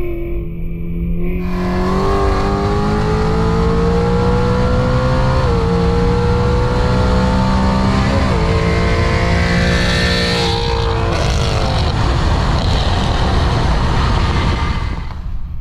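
Tuned Infiniti Q50 3.0t twin-turbo V6 pulling hard under full throttle, heard from inside the cabin: the engine note climbs steadily, drops twice with upshifts about three seconds apart, and climbs again after each. About two-thirds of the way through the rising note dies away as the throttle lifts, leaving steady road and tyre rumble.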